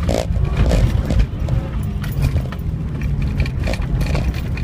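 2012 Subaru WRX's turbocharged 2.5-litre flat-four heard from inside the cabin, running hard at high revs on the throttle, then easing to lower revs as the car slows. Scattered knocks and clicks sound through it.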